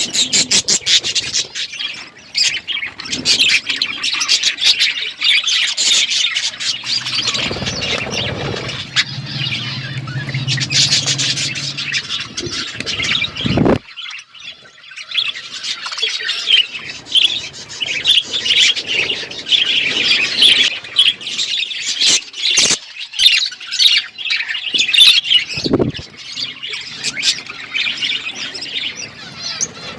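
A flock of budgies chattering and chirping continuously, with rapid warbles and squawks. A low hum runs underneath for several seconds in the middle and cuts off suddenly, and a few sharp clicks come later.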